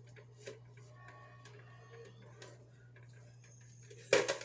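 Faint wet handling and light clicks of hands rubbing olive oil into a raw chicken in a plastic colander, over a steady low hum. About four seconds in there is a sudden loud clatter, a mishap with something knocking against the plastic cookware.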